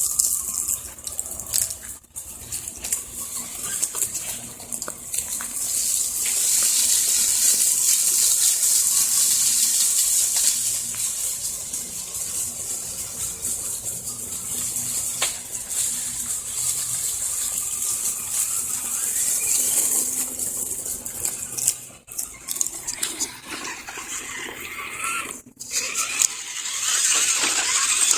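Axial SCX10 RC crawler truck driving through grass: a rushing hiss of grass against the tyres and chassis over the faint whir of its electric motor and gears, with brief cut-outs about 2, 22 and 25 seconds in.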